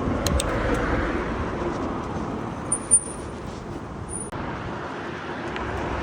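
Street traffic noise: a car passing, rising over the first couple of seconds and then easing, with a brief sharp click about three seconds in.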